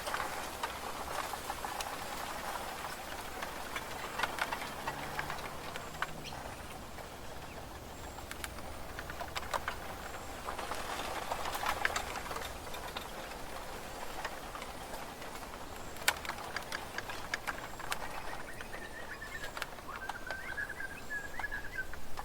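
Bamboo forest ambience: a steady rustle with scattered sharp clicks and knocks, one louder about two-thirds of the way through. A drawn-out high tone sounds near the end.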